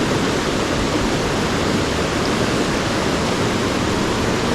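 Rushing water of a mountain trout stream, a steady, unbroken wash.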